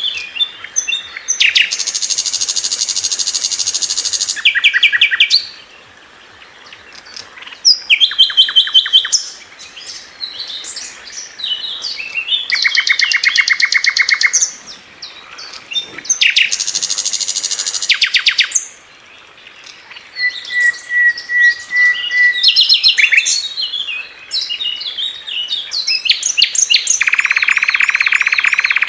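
Sikatan londo (a flycatcher kept as a songbird) singing: bursts of rapid high trills and chirps, buzzy rattling phrases and a run of even clear notes, broken by short pauses, with a dense rattle near the end.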